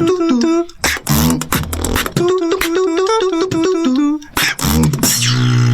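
Beatboxing: vocal kick and snare hits under a hummed melodic line that steps up and down, ending on a held low bass note.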